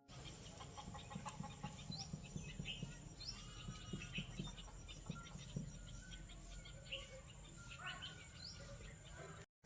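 Faint farmyard bird sounds: chickens clucking low while small birds chirp in many short high calls over a steady background hum.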